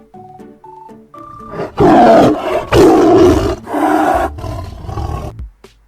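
A tiger roaring: three loud roars in quick succession, then a weaker fading one, over light background music.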